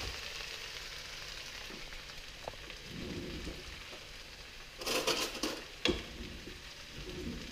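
Vermicelli stir-fry sizzling steadily in a hot wok, with a short louder burst of stirring noise about five seconds in and a single knock just before six seconds.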